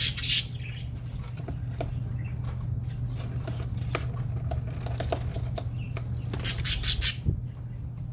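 Budgerigars fluttering their wings in short flurries, once right at the start and again about six and a half seconds in, with scattered soft chirps, over a steady low hum.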